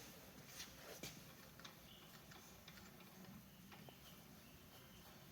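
Near silence: room tone with a few faint, sharp clicks scattered through it, like light metal-on-metal handling.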